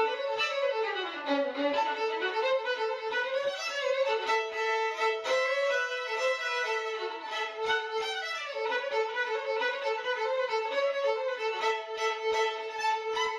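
Violin music: a melody played over a held note, with a sliding drop in pitch about a second in.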